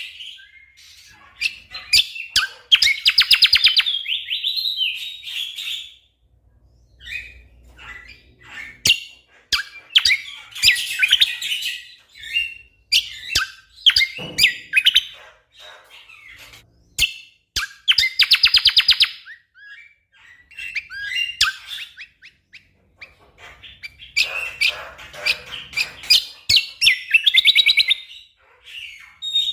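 Cucak kombo (kecial kombok) singing: bursts of rapid-fire, tightly packed rattling notes, each lasting a second or two, broken up by single sharp chips and short pauses.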